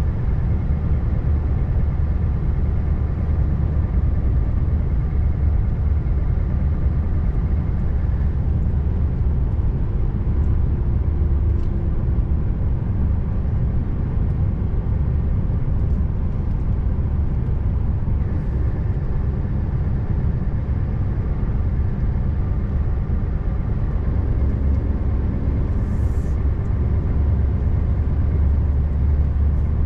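Scania R590 truck's V8 diesel engine running steadily at cruising load with low road rumble. Near the end there is a brief high hiss.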